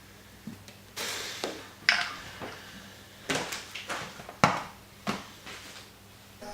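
A scattering of light knocks, clatters and short scrapes, about a dozen at uneven intervals, as of objects being handled, over a faint steady hum.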